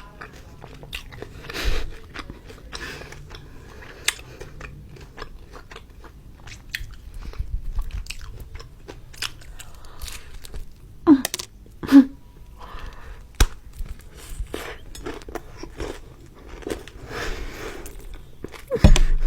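Close-up biting and chewing of a chicken leg ice cream, its coating crunching, with many small clicks and two louder, sharper sounds about eleven and twelve seconds in.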